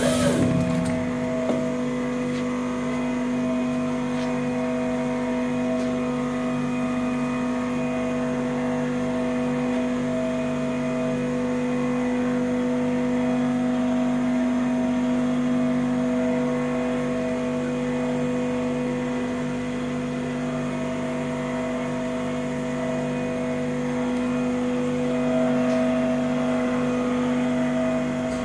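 SCM Startech CNC machine running with a steady, even pitched hum, after a brief burst of noise right at the start.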